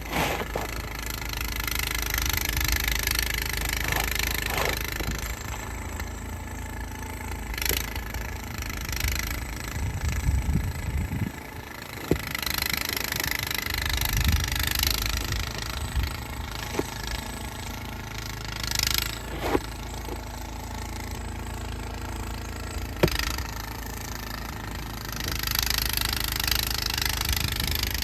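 An engine running steadily with a low rumble, with a few sharp knocks scattered through.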